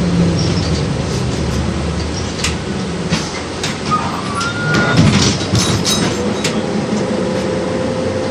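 Inside an LVS-86K tram car on the move: a steady running rumble with scattered sharp clicks and knocks, a brief high squeal about four to five seconds in, and a steady hum setting in near the end.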